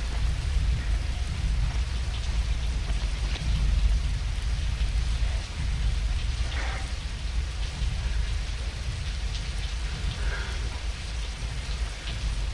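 Rain falling steadily, with a deep, steady rumble underneath.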